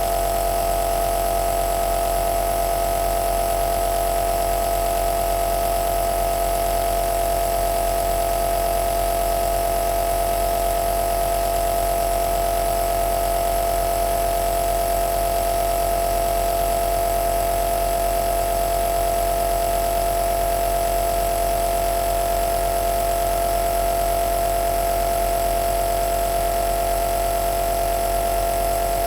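Compressor nebulizer (home aerosol inhaler machine) running: a steady motor hum with a constant whining tone over a hiss, unchanging throughout.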